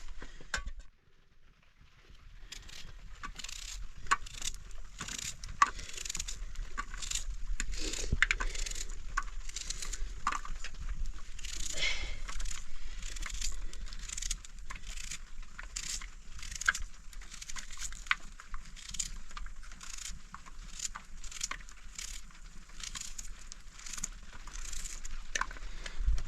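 Irregular light clicks and taps, about one or two a second, over a faint hiss, after a brief lull about a second in.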